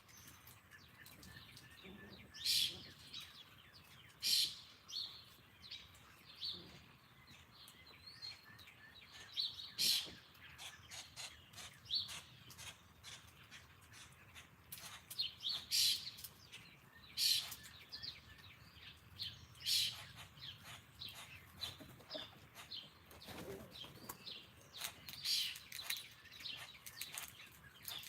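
Small birds at a backyard feeder chirping: short, sharp, high chirps coming every second or two at irregular intervals.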